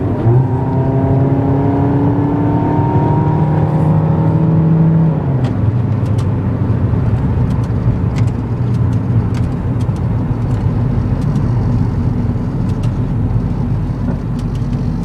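Suzuki Aerio's engine and road noise heard from inside the cabin while driving. The engine note climbs slowly for about five seconds, then drops, and a steady engine and tyre drone follows.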